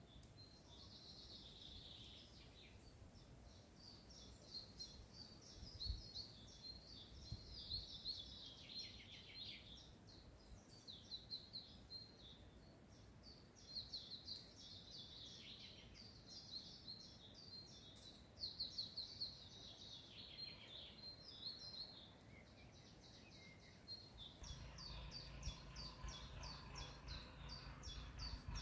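Several songbirds singing and chirping, short repeated calls and trills overlapping one another. About three-quarters of the way in, a low steady rumble joins them.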